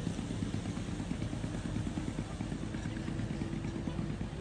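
An engine running steadily at low revs, with a fast, even pulse.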